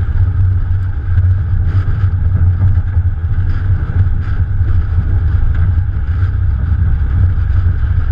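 A Morgan Plus 4 sports car driving along, heard from a microphone on its bonnet: a steady low rumble of wind buffeting mixed with the car's Ford 2.0-litre engine running at an even pace.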